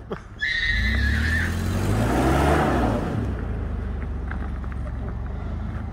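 Engine of a vehicle straining to tow a stuck old truck out of its hole. It revs up about two seconds in, then eases back to a steady run about three seconds in. A brief high squeal comes near the start.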